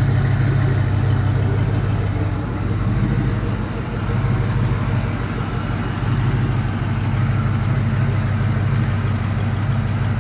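Chevrolet 5.3-litre Vortec V8 (LM7) idling steadily and smoothly while still warming up from a cold start, with no lifter tick or other noises.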